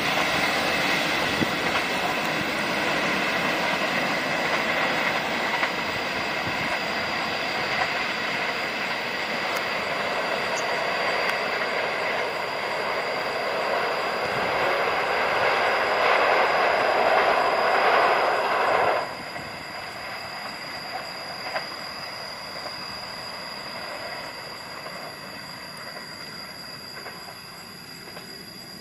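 Train running past on the rails, a steady rush of wheels and cars that cuts off sharply about two-thirds of the way through as the end of the train passes, then fades into the distance.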